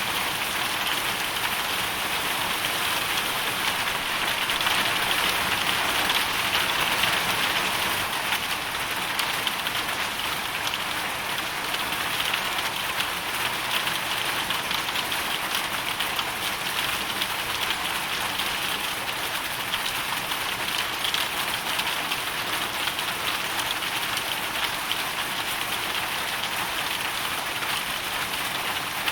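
Hailstorm: hail and rain falling steadily, a dense hiss of countless small impacts, swelling slightly about six to eight seconds in.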